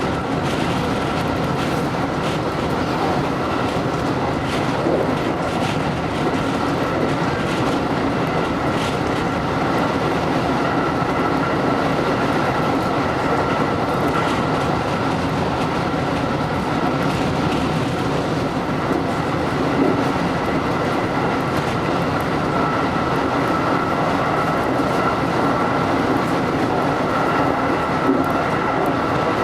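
JR electric train running between stations, heard from inside: a steady rumble of wheels on the rails with faint clicks over rail joints and a steady high tone.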